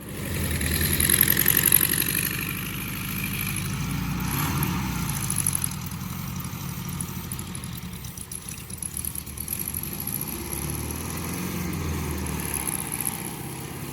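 Car engine running: louder in the first two seconds or so, then settling into a steady idle.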